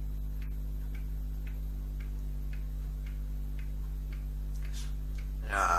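Light, regular ticking, about two ticks a second, over a steady low hum. Near the end a voice-like sound with changing pitch begins.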